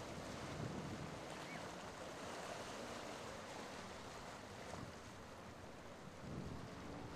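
Steady wash of ocean surf at an inlet, with wind. A low rumble builds near the end.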